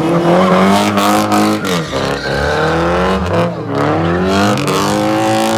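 Car engine revving hard, its pitch climbing and falling back about three times.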